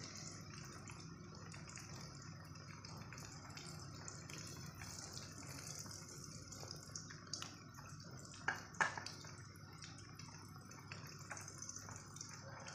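Faint, gentle sizzling and crackling of a piece of eggplant frying in a pan of reused cooking oil that is not yet fully hot, with two sharper clicks a little past halfway.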